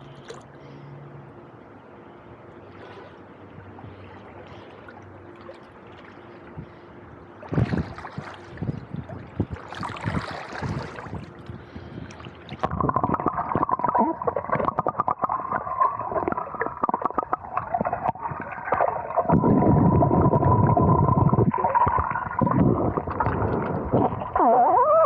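Water gurgling and churning over an Insta360 Go 2 action camera's microphone as it goes into the water, starting about seven seconds in and growing loud. From about halfway, a steady whining tone runs under the water noise.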